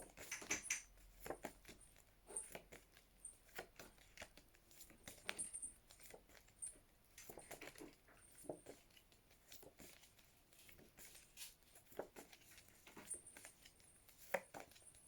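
Near silence, broken by faint scattered clicks and soft rustles of word flashcards being handled and swapped in quick succession.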